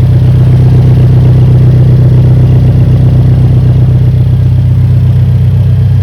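Alfa Romeo 4C's turbocharged 1.75-litre four-cylinder engine idling steadily shortly after a cold start, with a strong low hum and no revving.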